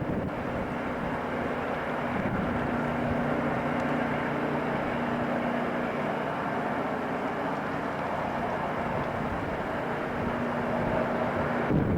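Rail grinding machine at work: a steady mechanical noise with a diesel-engine hum underneath, holding even for the whole time.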